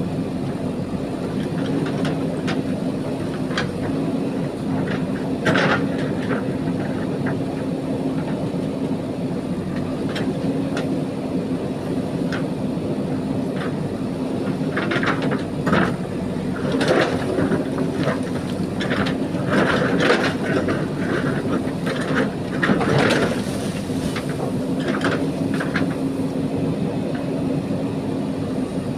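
JCB backhoe loader's diesel engine running steadily under load, with irregular scraping and clattering knocks of the bucket digging into and moving gravel.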